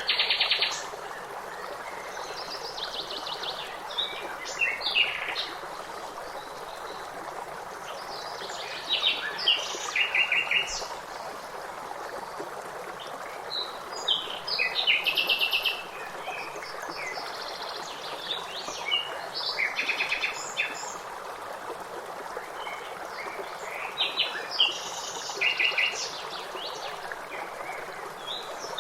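Several small songbirds calling in short bursts of quick repeated notes and trills, every few seconds, over the steady rush of running water.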